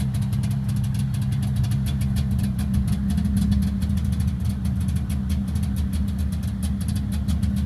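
Polaris Indy 340 snowmobile's two-stroke engine idling steadily as it warms up after a cold start, still burning off its choke fuel.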